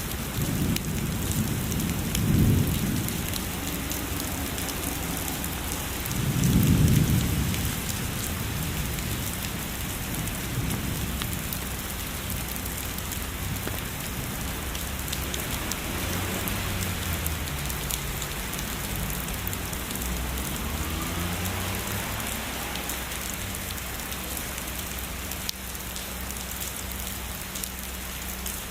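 Steady heavy rain pattering, with low thunder rumbling in the first eight seconds: two swells, the louder one about seven seconds in, then fainter rumbles trailing off.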